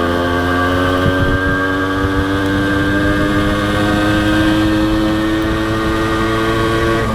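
Honda CDI H100S motorcycle's small single-cylinder four-stroke engine running while riding, its pitch rising slowly and steadily as it picks up speed, with road and wind rumble underneath.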